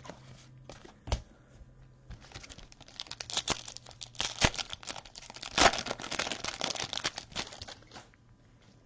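Trading-card pack wrapper being torn open and crinkled, a dense crackling from about three seconds in that is loudest midway and dies down near the end, after a single light knock early on.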